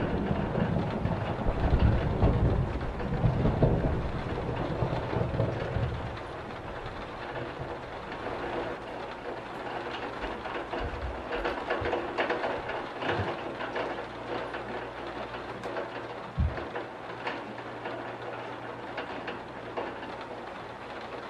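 Steady rain with scattered drip taps, under a low rumble of thunder that dies away over the first six seconds or so.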